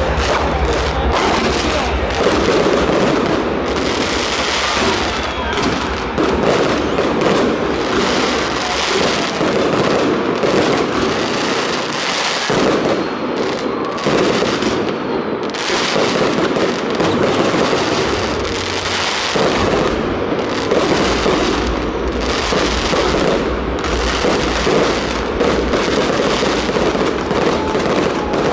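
Fireworks going off continuously, a rapid, unbroken string of bangs and crackles with no pause.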